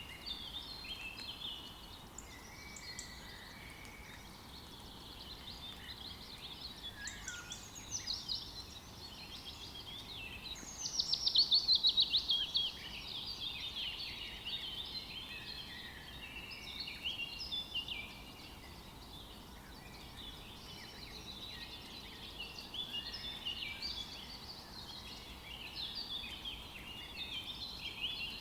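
Forest birds singing, many overlapping calls and chirps, with one louder, fast trill that falls in pitch about ten seconds in.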